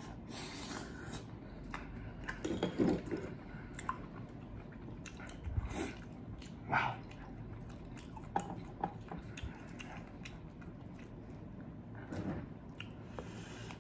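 Wet chewing and squishing of raw oysters in the mouth, in short irregular bursts.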